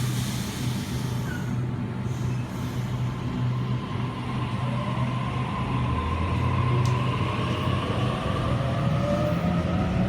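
Electric suburban train at the platform: a steady low hum, with a traction-motor whine that rises in pitch from about halfway through.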